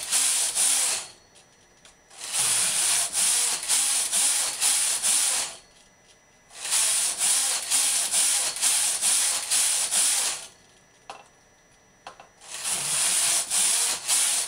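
Knitting-machine carriage being pushed back and forth across the needle bed, a rasping slide with fine clicking as it knits each row. It makes about four passes, each a few seconds long, with a short pause between rows.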